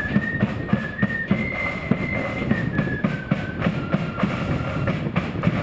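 Marching flute band playing a tune: a single line of high flute notes stepping up and then back down, over drums beating steady time.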